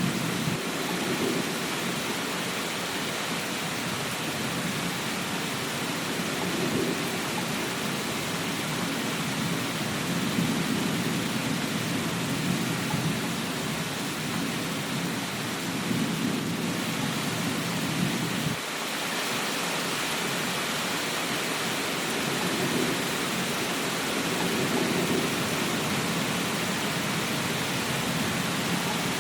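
Steady rain with a low rumble underneath that swells and fades several times and cuts off abruptly about two-thirds of the way through.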